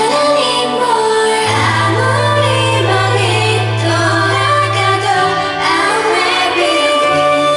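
Girl group singing a K-pop song live over a backing track, female voices carrying the melody above long held bass notes that shift a few times.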